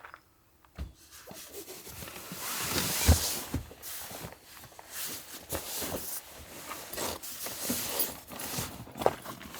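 Rustling and rubbing with scattered small knocks, like things being handled up close, starting about a second in and loudest around three seconds.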